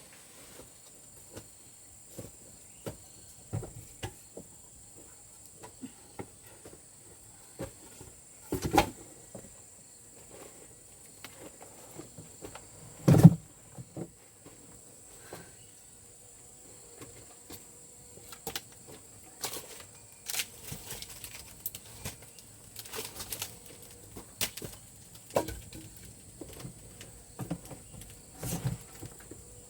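Scattered knocks, snaps and cracks of wood being handled while gathering firewood, with two louder thuds, one about a third of the way in and one near the middle.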